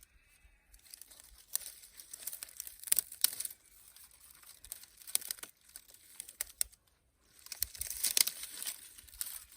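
Dry dead dock stems being handled and broken up for tinder, giving irregular crackling and rustling snaps that come in clusters.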